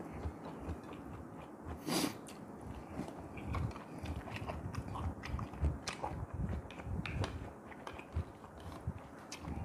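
Close-miked chewing of a mouthful of rice: soft, irregular wet clicks and low thumps of the mouth working. There is one louder, brief mouth noise about two seconds in.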